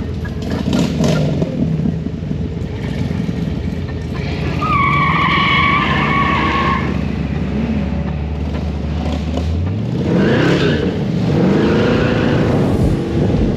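Cars and trucks driving past, their engines revving up and down, with a held tire squeal from about four and a half to seven seconds in. Near ten seconds another engine revs up sharply.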